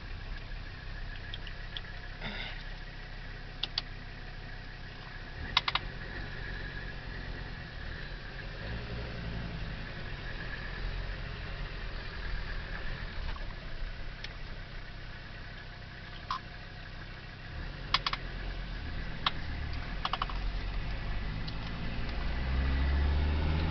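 Mercedes-Benz turbo diesel engine in a Mazda running steadily while driving, with a faint steady whine and several scattered sharp clicks or rattles. The engine grows louder in the last couple of seconds.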